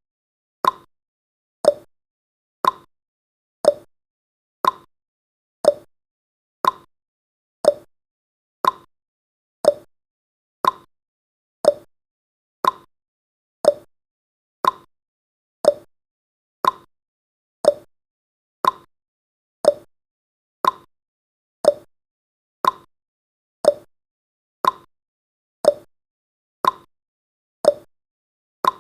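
Clock tick-tock sound effect: one short tick each second, alternating between a higher tick and a lower tock, with silence between.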